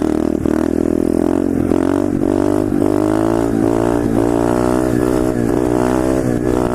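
125cc SSR pit bike's single-cylinder engine revving hard under acceleration for a wheelie. Its pitch climbs and drops back several times as the throttle is worked.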